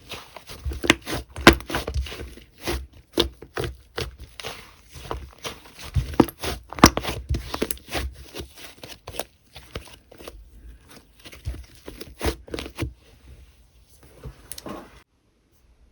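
Slime being played with by hand: dense, irregular crackling and popping clicks that stop shortly before the end.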